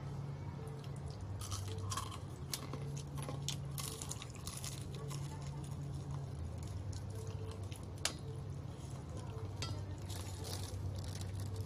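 Close-up chewing and crunching on crispy fried chicken skin, with scattered crisp crunches and one sharper crack about eight seconds in. A steady low hum runs underneath.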